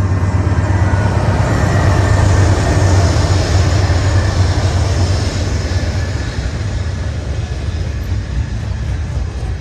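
Freight train passing close by: a low diesel rumble with wheel-on-rail noise, loudest about two to three seconds in and easing off after.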